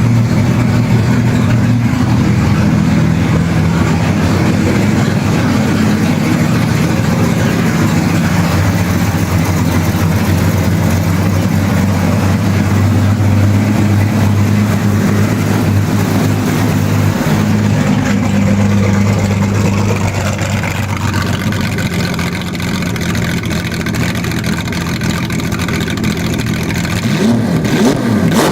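Jaguar XJS V12 race engine running steadily just after starting, warm, on a preliminary fuel map before it goes on a rolling road. Its note shifts about twenty seconds in.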